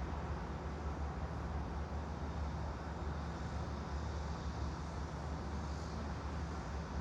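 Steady background white noise: a constant low hum with an even hiss above it, unchanging throughout.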